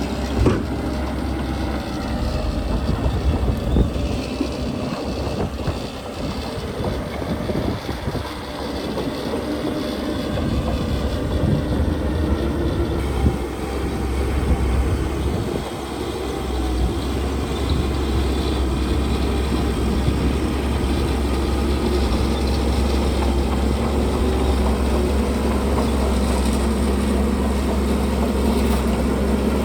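Heavy diesel construction machinery running steadily under load, with occasional metallic knocks and clanks in the first half.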